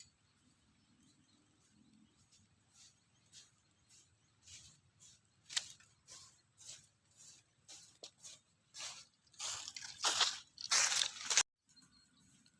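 Irregular crunching and crackling of dry leaves and twigs, sparse at first, then denser and louder near the end before cutting off suddenly.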